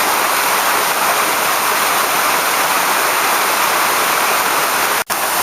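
Monsoon-fed waterfall pouring over desert canyon rock, a steady loud rush of water. The sound cuts out for an instant near the end.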